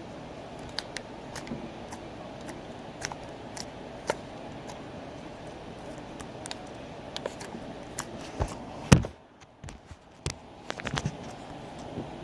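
Scattered small clicks and taps over a steady background hum, with one loud knock about nine seconds in, after which the hum drops away for about a second.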